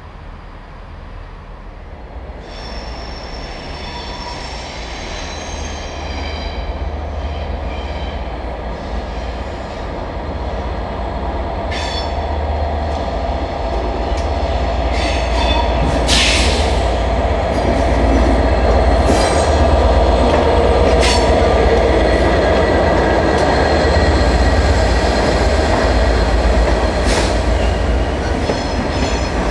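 Locomotive-hauled passenger train, a Class 67 diesel locomotive with its coaches, running slowly past: a steady rumble that grows louder, with the wheels squealing on the rails, most strongly a few seconds in. Sharp clicks from the wheels on the track come every few seconds in the second half.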